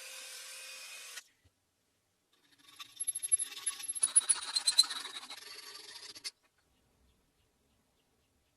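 Hand-tool work on steel: a second of steady rasping, then a few seconds of scraping with sharp metallic clinks and high ringing.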